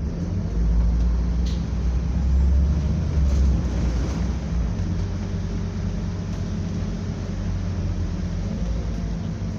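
Scania double-decker bus engine running, heard from on board as a steady low drone that grows louder and deeper from about half a second in to about three and a half seconds in, then settles back.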